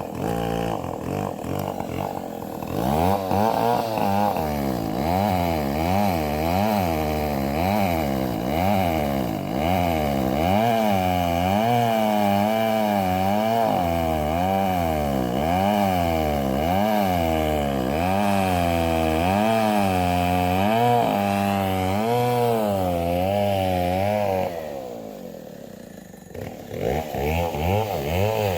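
Chainsaw running, its engine pitch swinging up and down about once a second. It drops away briefly near the end, then picks up again.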